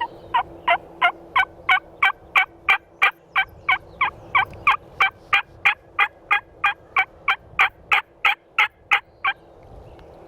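A long series of about 28 hen-turkey yelps, roughly three a second, each note dropping in pitch, stopping about nine seconds in. It is a hunter's turkey call used to draw in a gobbler.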